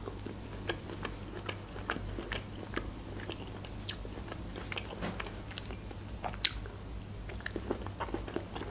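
A person chewing food close to the microphone, with many small wet mouth clicks and crunches. One sharp, louder click comes about six and a half seconds in.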